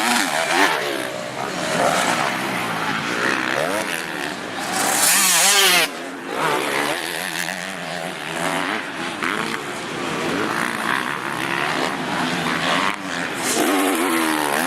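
Several motocross bikes racing, their engines revving up and down over one another. A loud rushing burst about five seconds in stops suddenly.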